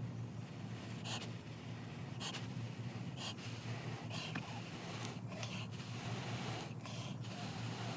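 A person blowing short breaths onto a friction-fire coal, a puff roughly every second, to keep the coal alive and bring it up, heard over a steady low hum.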